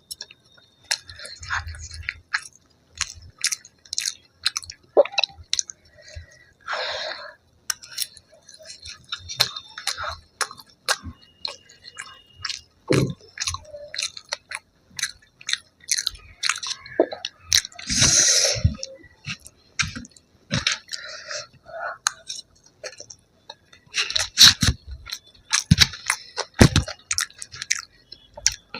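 A person chewing and crunching food close to the microphone: a steady run of moist chewing with many sharp crunches, louder in bursts about two-thirds of the way in and again near the end.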